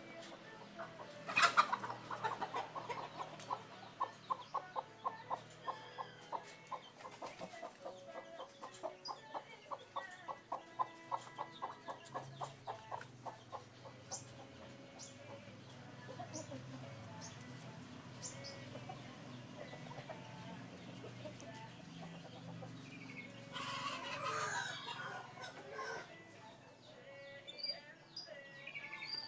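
A chicken clucking in a long run of short, regular clucks, after a sharp knock about a second and a half in; a few high chirps follow, and a brief noisy rustle comes near the end.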